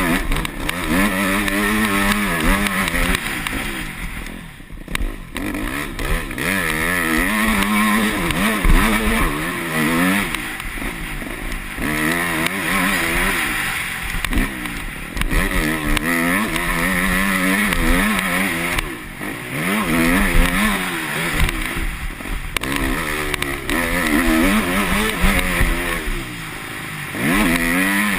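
Yamaha YZ250F single-cylinder four-stroke motocross bike engine revving up and down again and again as it is ridden round a track, the pitch climbing through each burst of throttle and dropping away every several seconds as the throttle is shut off.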